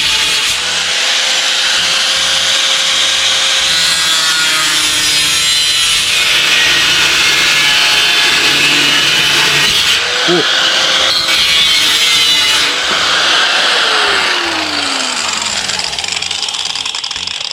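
Electric power saw cutting steadily through wood, with the motor's whine running under the cut; over the last few seconds the motor winds down with a falling whine.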